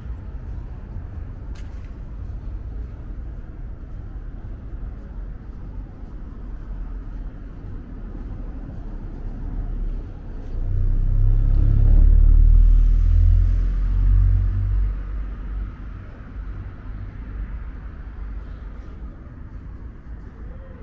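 A road vehicle passing close by: a low rumble swells about ten seconds in and fades again by about fifteen seconds, over a steady low background hum.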